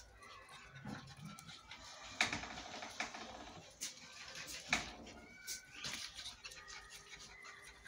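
Puppies whining and yipping in short, high calls as they play, with scattered clicks and scuffling throughout.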